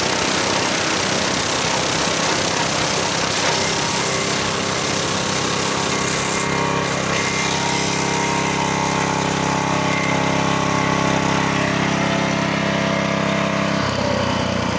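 Petrol wood chipper with a 7 hp engine running continuously; the sound is rough and uneven at first, then settles to a steadier engine note about halfway through.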